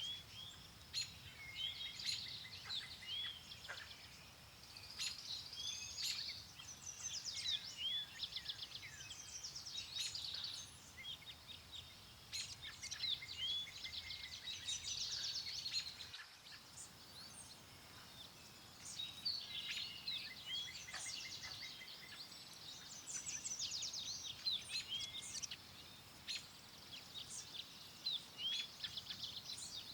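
Several songbirds chirping and singing, with overlapping short calls and quick trills, over a faint low rush of wind.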